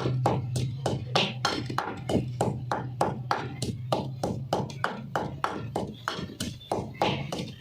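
Quick, regular pounding of mint, green chili, garlic, ginger and cheese into a paste, about five strikes a second. A steady low hum runs underneath.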